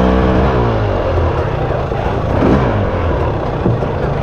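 Dirt bike engine dropping in pitch as the bike slows during the first second, then a steady dense noise.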